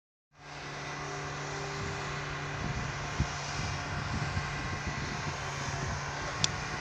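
Diesel locomotive engine running steadily with a constant low hum, with scattered knocks and a brief high squeak near the end.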